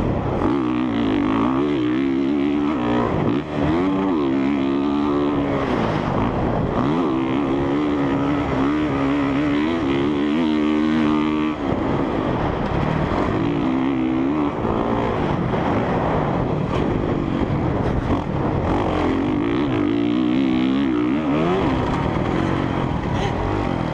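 Single-cylinder four-stroke engine of a Honda CRF450R dirt bike being ridden, its revs climbing and dropping again and again every second or two.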